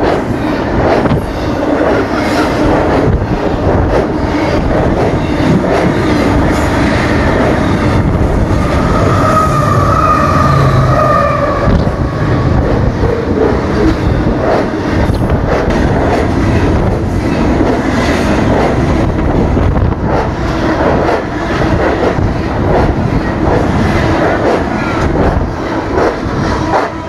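Fast double-stack intermodal container train passing close by: a loud, steady rumble of wheels on rail with clickety-clack over the rail joints. A brief high whining tone rises over it about ten seconds in.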